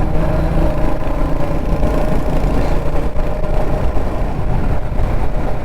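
Kawasaki Z900 inline-four motorcycle engine running at a steady engine speed while riding, with wind and road noise on the helmet microphone.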